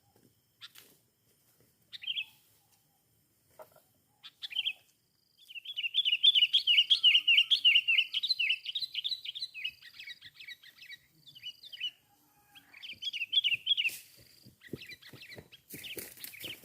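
Sooty-headed bulbul (kutilang) calling: a few short calls, then a long, fast, chattering song phrase, and more calling after a pause. A run of sharp clicks or rustles follows near the end.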